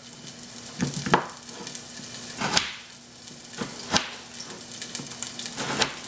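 Onions frying in hot oil in a saucepan with a steady sizzle. Over it come a few sharp knocks of a knife cutting through a frozen tomato onto a cutting board.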